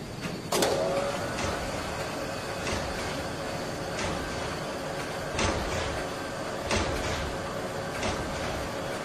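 A steady mechanical hum with a faint held tone, broken by sharp clacks or knocks that repeat roughly every second and a half.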